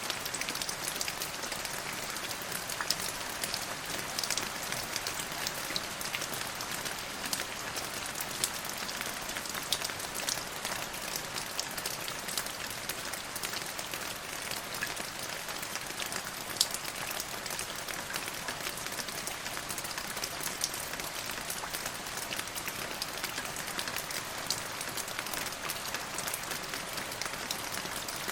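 Steady rain falling: a constant hiss dotted with many small sharp drop ticks, without let-up.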